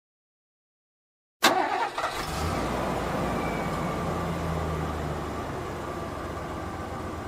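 Total silence for about a second and a half, then a sudden click and a motor vehicle engine sound that starts abruptly and runs steadily.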